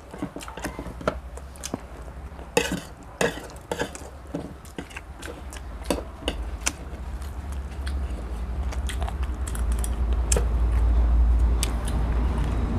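Spoons and dishes clinking and tapping during a meal, many scattered sharp clicks. A low rumble grows louder in the second half.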